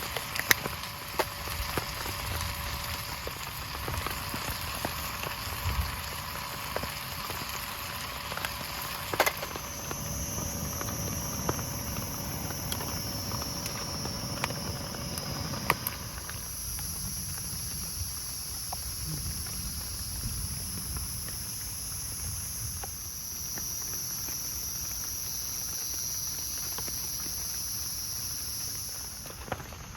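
Steady rain falling, with scattered sharp drip ticks. About a third of the way in, a thin, high, steady whine joins it.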